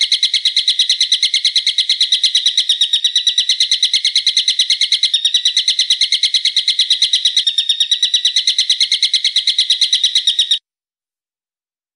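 A bird's call used as a training recording: a long, unbroken chatter of sharp notes repeated about seven times a second, which cuts off suddenly near the end.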